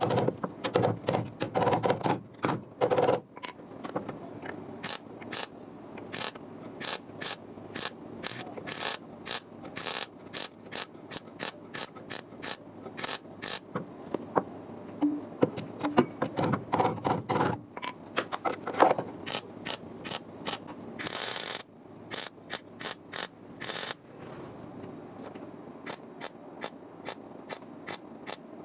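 Welder laying a quick series of short tack welds on car body sheet metal, each a brief crackling burst of about a fifth of a second, coming two or three a second. A few longer welds run for about a second.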